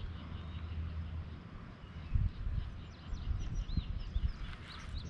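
Wild birds chirping and calling in a quick series of short high notes, over an irregular low rumble with a few dull thumps.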